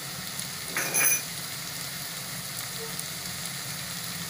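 Sliced onions, tomatoes, cashews and garlic paste frying in oil in a kadai, with a steady sizzle. A brief louder sound cuts in about a second in.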